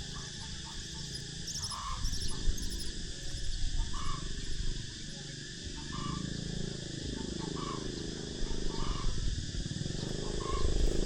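Nestling birds chirping, with short high chirps in the first few seconds and short calls repeating about once a second. Under them run a steady high insect drone and a louder low rasping buzz.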